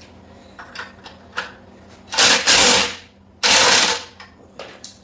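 Impact wrench hammering in two bursts, the first just under a second long and the second shorter, with a few light knocks of tools and parts before them. It is driving the lift that raises the rear wheel up into the swing arm.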